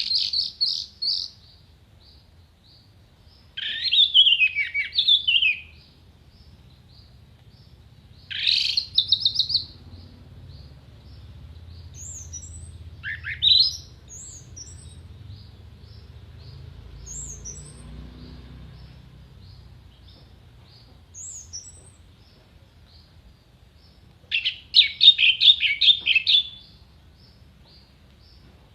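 Orange-headed thrush singing in separate phrases a few seconds apart: quick trills and sharp sweeping whistles, the loudest and densest burst coming near the end. A faint high note repeats about once or twice a second between the phrases.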